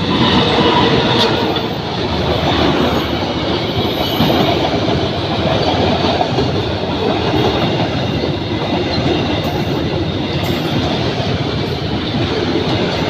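Indonesian railway train passing close by, a loud steady rolling of wheels on rails that comes in suddenly at the start.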